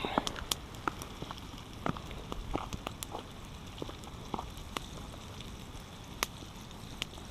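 Battered perch frying in oil over a campfire: a steady hiss with irregular sharp pops and crackles.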